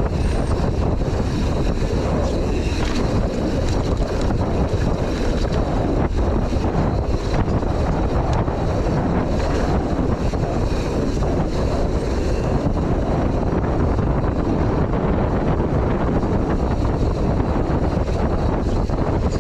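Wind rushing over the microphone mixed with tyre noise and the clatter of a mountain bike descending a rough dirt trail, with many small knocks and rattles throughout.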